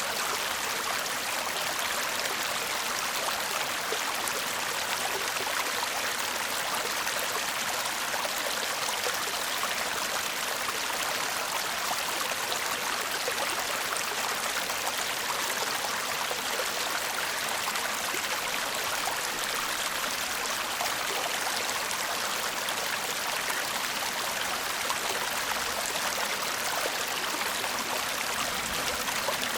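A shallow stream babbling and murmuring steadily over stones, an even rush of water with no breaks.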